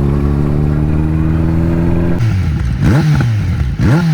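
Kawasaki Z900's inline-four engine running at a steady note. About two seconds in the throttle closes, and then the engine is blipped twice, the revs shooting up and falling back each time.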